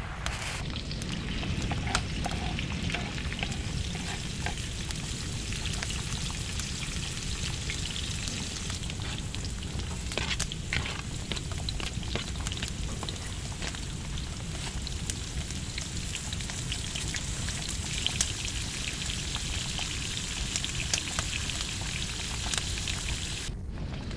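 Chopped onion and green peppers sizzling as they fry in a grill pan on a wood stove: a steady frying hiss with scattered small clicks and taps.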